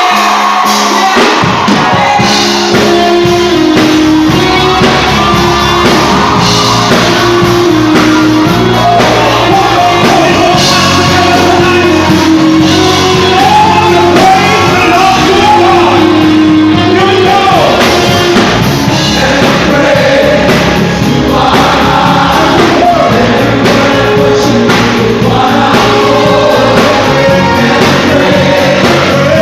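Live gospel music: a band with steady bass playing under singing voices, loud and unbroken, in a large hall.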